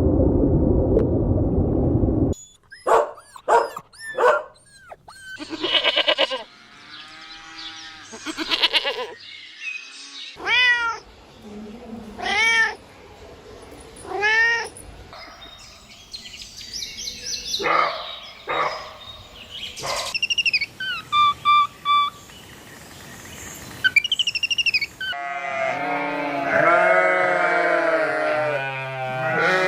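A cat meowing over and over, several separate rising-and-falling meows with pauses between them, mixed with some short high chirping notes. It opens with a loud low noise that cuts off after about two seconds, and near the end comes a long wavering bleat.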